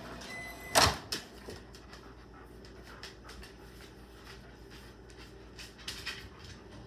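Microwave oven finishing: a short beep, then a loud click of the door being opened, followed by faint clicks and rustling of handling.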